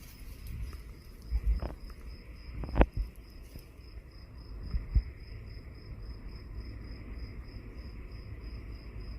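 An insect chirping steadily in a fast, even pulse of about five high chirps a second. A few short dull thumps sound in the first half, the loudest near the three-second mark.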